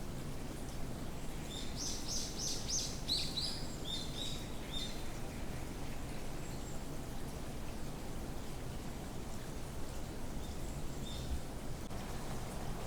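A songbird sings a quick run of high chirping notes for a few seconds, then a couple of faint notes later, over a steady background hiss.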